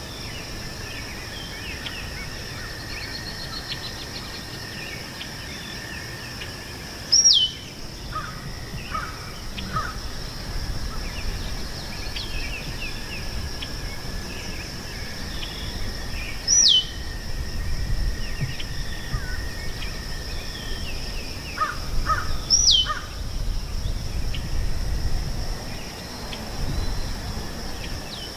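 Meadow ambience: a steady chorus of insects droning on two high pitches. Over it, a bird gives a short, loud call that falls steeply in pitch, three times about six to nine seconds apart, with softer chirps from small birds in between and a low rumble of wind.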